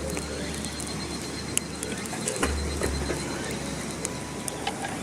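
Wood campfire crackling, with sharp pops scattered irregularly through it over a low steady rumble.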